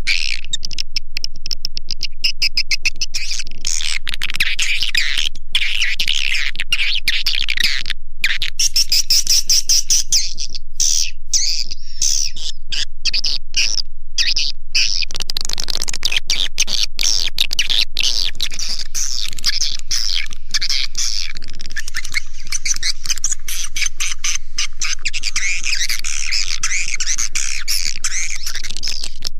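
Swiftlet lure-call recording for a swiftlet house: loud, dense, unbroken high-pitched twittering and chirping of edible-nest swiftlets.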